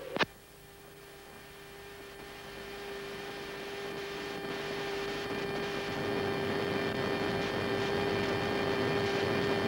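Steady jet aircraft noise, a hiss with a constant hum, growing gradually louder.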